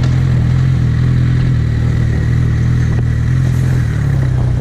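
Suzuki GSX650F motorcycle's inline-four engine running at a steady, even pitch while riding.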